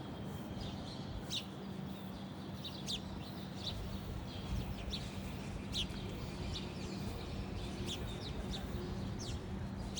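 Small birds chirping: short, sharp, falling calls at irregular intervals, over a steady low hum and background noise.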